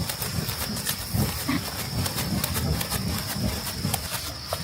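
Irregular low thumps and rustling, with insects chirring steadily in the background.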